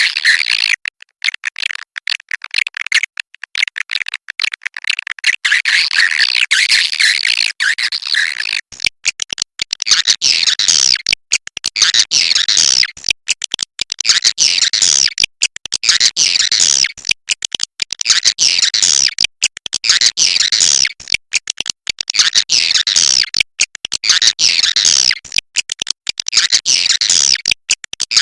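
Cave swiftlets twittering and clicking in a dense, rapid chatter. About a third of the way in it settles into phrases that repeat roughly every two seconds.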